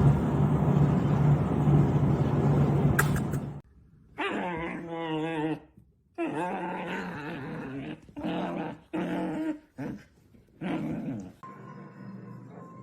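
A dog making a series of about six drawn-out whines and growls whose pitch wavers, each lasting under two seconds. Before them, a loud steady rumbling noise cuts off suddenly, and soft held musical notes come in near the end.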